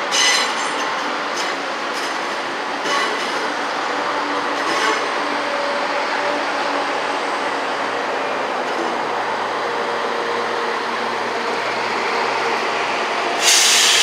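A train moving through a station, running steadily, with a few clicks from the wheels over rail joints in the first few seconds. A sudden loud hiss comes near the end.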